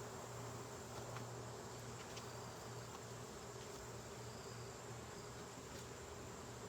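Honeybees buzzing steadily around an opened hive, with a few faint clicks.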